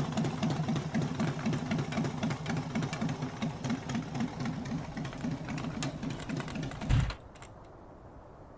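Motorcycle engine running with a rapid, even pulsing beat. About seven seconds in there is a short low thump, and the engine stops abruptly.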